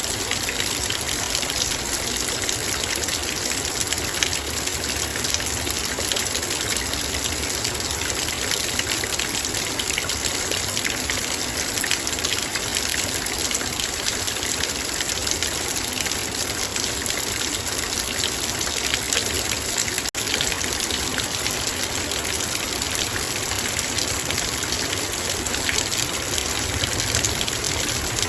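Heavy rain falling on a metal bowl: a dense, steady hiss of many drop impacts, with a very brief dropout about twenty seconds in.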